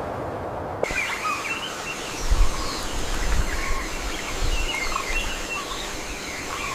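Outdoor nature ambience with several birds giving short chirping calls. A low rumble swells about two seconds in, the loudest moment, and again a little later. It opens with under a second of steady low rumbling noise that cuts off abruptly.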